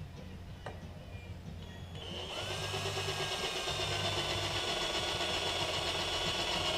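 Electric drill running for about five seconds, starting a couple of seconds in, with a steady whine that sags slightly in pitch.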